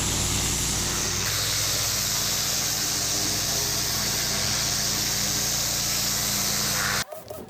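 Engine-driven pressure washer running, with the loud steady hiss of its high-pressure water jet spraying; it cuts off abruptly near the end.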